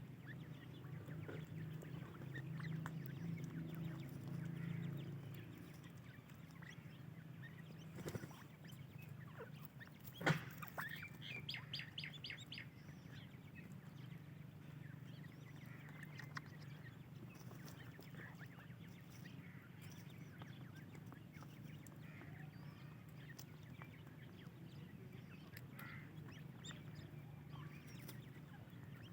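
Francolin (teetar) chicks chirping faintly, with a quick run of chirps about ten seconds in and scattered calls afterwards, over a steady low hum and a few light taps.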